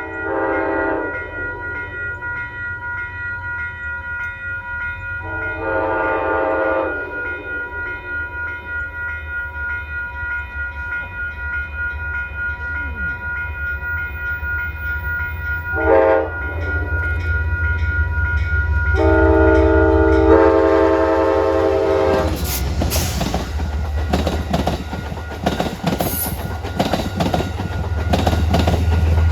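Amtrak passenger train's locomotive horn sounding the long, long, short, long warning pattern as it approaches, with the diesel engine drone underneath. After the last long blast the train passes with rapid wheel clatter over the rails, louder near the end.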